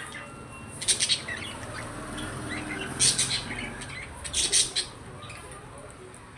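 Pet budgerigars chirping in three short bursts of quick, high twittering calls, about one, three and four and a half seconds in.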